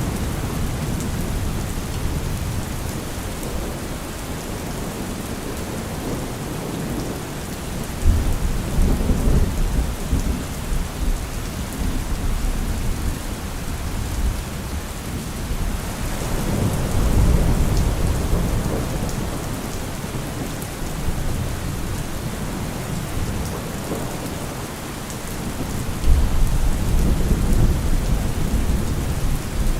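Steady rain falling in a thunderstorm, with low rolling thunder three times: a sudden rumble about a quarter of the way in, a swelling one around the middle, and another sudden one near the end.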